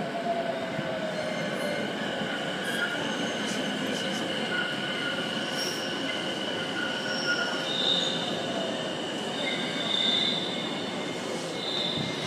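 Steady rumble of electric trains in a station, with thin, high wheel-squeal tones coming and going and growing stronger in the second half. One train is pulling in at the platform across the tracks while another approaches from the tunnel.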